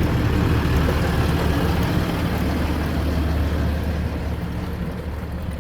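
Motor vehicle engine running with a steady low rumble, easing off slightly near the end.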